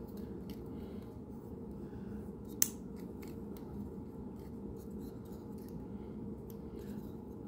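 Plastic joints and panels of a deluxe Transformers figure clicking and rubbing faintly as it is transformed by hand, with one sharper click about two and a half seconds in, over a steady low hum.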